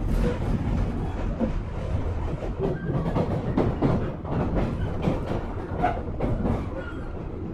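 JR 103 series 1500 subseries electric train running on the line, heard from inside the car: a steady low rumble with many clacks of the wheels over the rail joints.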